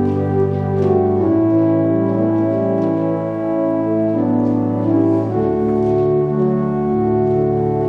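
Organ music: slow sustained chords that change every second or two, with a deeper bass note coming in about five seconds in.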